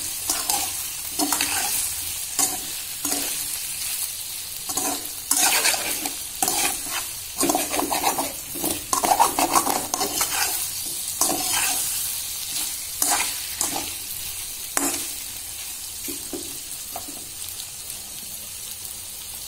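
Boneless chicken pieces sizzling in oil in a metal wok over low heat, stirred with a slotted metal spatula that scrapes against the pan in repeated strokes. The stirring thins out over the last few seconds, leaving the steady sizzle.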